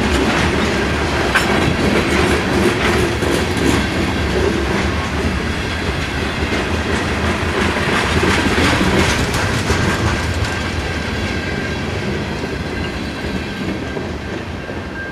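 Freight cars of a slow-moving train rolling past: steel wheels clacking over rail joints amid steady rolling rumble and rattles, easing off as the last cars go by near the end.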